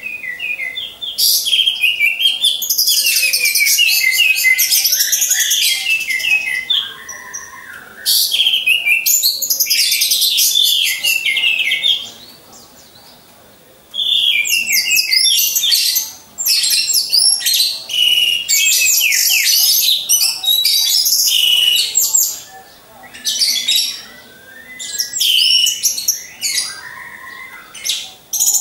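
Orange-headed thrush (anis merah) singing loudly in long, rapid, high-pitched warbling phrases of several seconds each, broken by short pauses.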